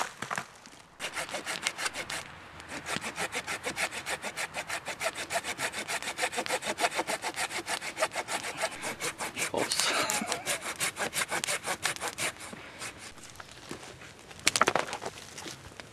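Wood being cut with a hand saw in quick, even back-and-forth strokes that stop about three-quarters of the way through, followed by a short, louder noise near the end.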